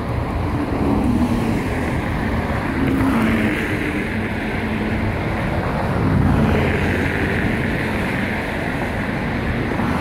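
Wind buffeting the phone's microphone as a loud, continuous low rumble, swelling twice, about three seconds in and again around six seconds.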